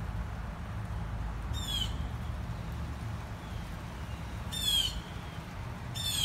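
Three short, high-pitched squawks from a bird, a few seconds apart, the second the loudest, over a low steady rumble.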